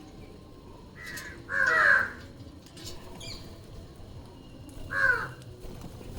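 Green parrots giving harsh squawks: a short one about a second in, a louder one just after, and another about five seconds in, with a few faint high chirps between.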